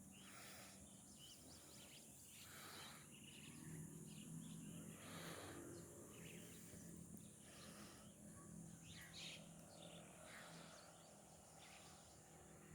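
Faint outdoor background with scattered short bird chirps over a steady high hiss.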